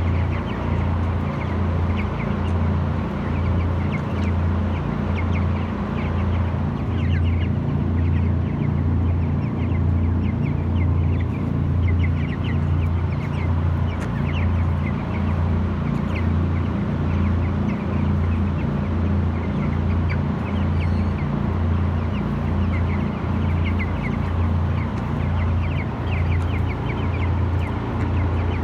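A flock of young chickens, about 22 days old, peeping and chirping throughout, over a steady low machine hum that pulses a little more than once a second.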